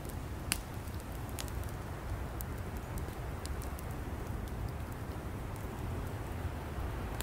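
Campfire of firewood burning: a steady low rumble of flames with frequent sharp crackles and pops from the wood, one louder pop about half a second in.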